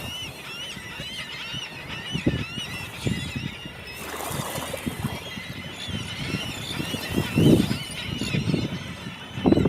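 Many birds calling over one another in a continuous chorus of wavering calls, with low thumps and rumbles now and then, the loudest about seven and a half seconds in.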